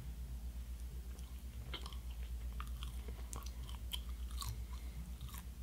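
A person chewing a bite of mango mochi made from mochiko rice flour and ice cream, with scattered soft mouth clicks. A low steady hum runs underneath.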